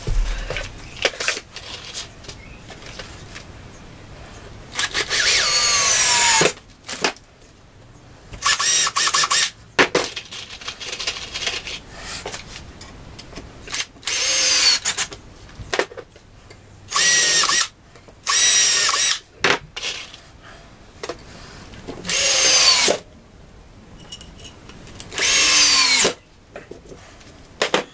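Power drill driving screws through a faceplate into a wooden blank, in seven short runs of about a second each, the motor's pitch dropping as each run goes on. Between the runs there is quieter handling.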